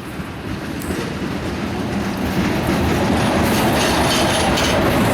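Freight train cars rolling past on the track, the rumble and clatter of steel wheels on rail growing steadily louder.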